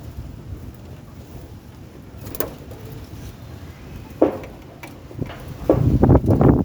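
Pigeons, with a low steady rumble and a couple of sharp clicks. In the last part comes a run of loud, rapid, irregular bursts.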